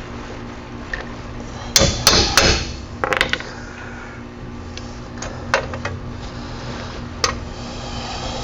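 Hammer blows on metal: three quick, loud strikes about two seconds in and a short cluster a second later, then a few lighter clinks.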